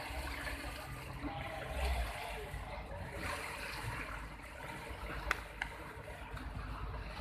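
Water rushing and splashing along a small pilot boat's hull, over a low engine rumble. Two sharp clicks come a little past halfway.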